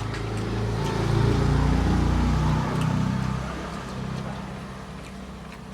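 A motor vehicle's engine passing by: a low hum that swells, peaks a second or two in, and fades away.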